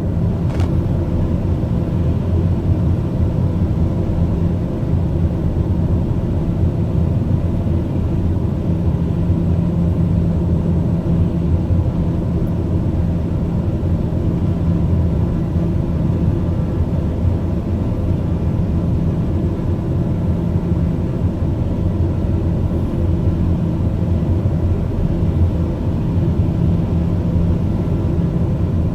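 Steady low drone of aircraft engine noise.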